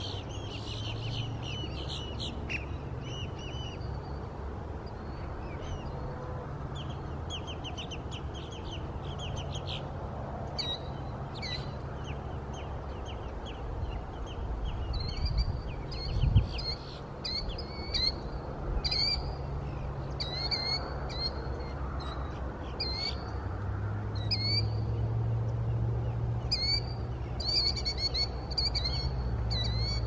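Small birds calling: high rapid trills through the first ten seconds or so, then many short, sharp chirps repeated over and over. A steady low rumble runs underneath, and there is one thump about halfway through.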